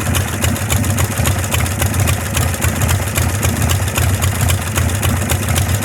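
Harley-Davidson Shovelhead V-twin engine idling steadily, a loud, even run of rapid exhaust pulses.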